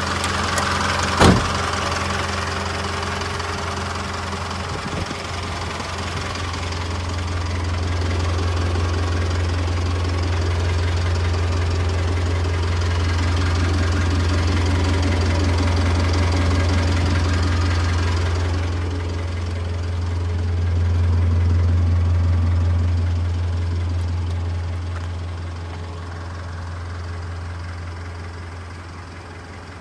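Isuzu Elf truck's engine running steadily with a strong low hum, and a single sharp knock about a second in. The higher-pitched noise drops away after about 18 s.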